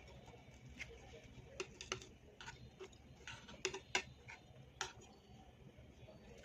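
Close-miked eating sounds: about a dozen sharp, irregular clicks of chewing and mouth noises, bunched together in the middle.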